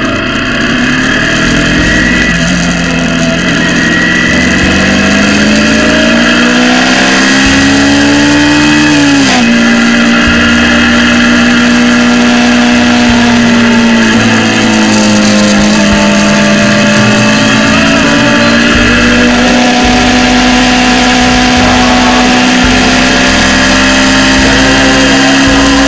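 Motorcycle engine pulling up through the revs, then dropping sharply in pitch about nine seconds in as it shifts up a gear. It settles into a steady cruise with a slight dip and a slow rise, heard from a camera on the bike with wind rushing over the microphone.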